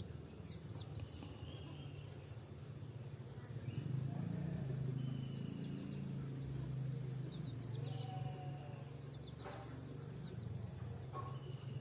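Small birds chirping in quick runs of short high notes, repeated every second or two, with a few short whistled notes between them, over a steady low hum.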